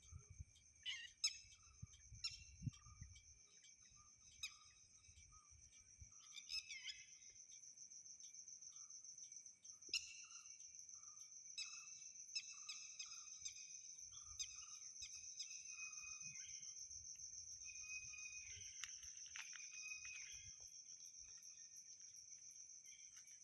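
Faint chorus of insects, crickets among them, with a steady high trill and a second, lower trill under it. A short call repeats about every two-thirds of a second for the first two-thirds of the stretch, and there are a few sharp clicks.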